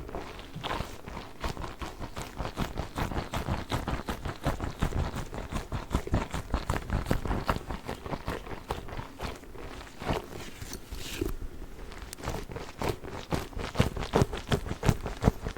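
A giant Orbeez water-bead ball being handled: a quick, uneven run of short taps, several a second.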